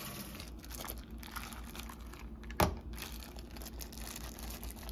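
Plastic packaging of a shrimp cocktail tray crinkling as it is handled, with one sharp click about two and a half seconds in.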